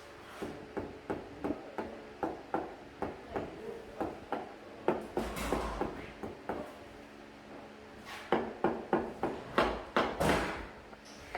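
A series of sharp hammer-like taps, about two or three a second, pausing briefly and then coming faster with a couple of short scrapes near the end.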